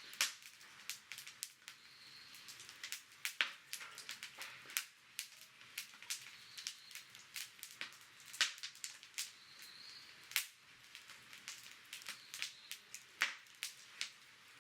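Wood campfire crackling, with irregular sharp pops and snaps over a faint steady hiss; a few pops stand out louder than the rest.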